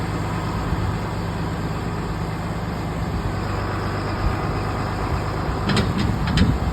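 Valtra T151 tractor's six-cylinder diesel engine running steadily at idle, with a few sharp knocks near the end.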